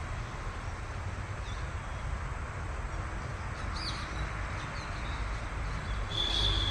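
Birds chirping now and then over a steady low rumble and hiss, with a high steady tone starting near the end.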